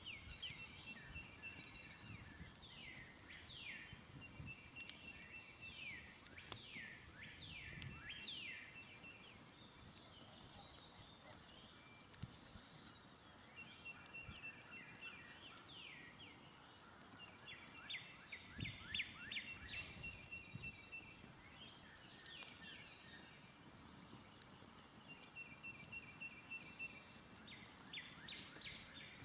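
Songbirds singing: bouts of fast high trills and quick downslurred notes that come and go several times, with faint scattered crackles from a smouldering campfire.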